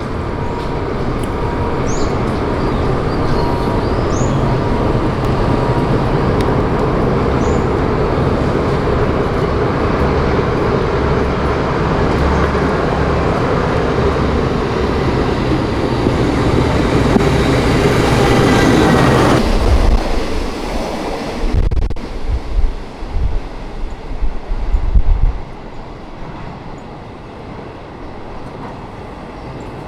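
A passenger train rolling past at close range, a loud steady rumble of wheels on rails that builds for most of the pass and then drops off sharply as the last car goes by. Low gusty buffeting follows for a few seconds before it fades.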